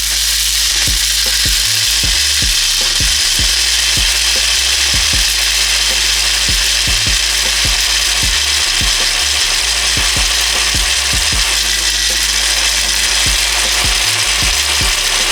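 Countertop blender running steadily at full speed, blending puppy food and goat milk into a mush; it switches on abruptly.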